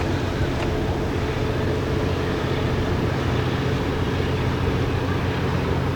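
Small tugboat's engine running with a steady low drone as the boat passes on the river.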